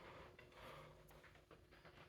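Near silence: faint room tone with a few soft rustles and a faint tick.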